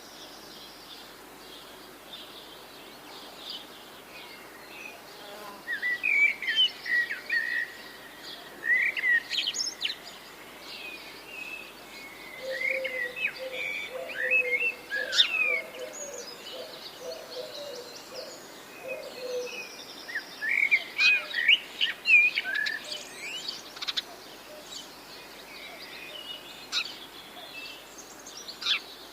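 Songbirds singing in bursts of quick chirps and trills, several phrases coming and going, with a lower run of repeated notes in the middle.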